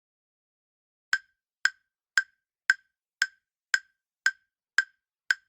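Countdown timer sound effect: a row of short, sharp ticks, about two a second, starting about a second in.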